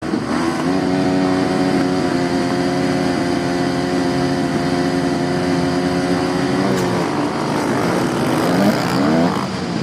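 A field of motocross bikes on the starting line, engines held at steady high revs together, then the engine notes break up and sweep up and down near the end as the bikes launch off the start.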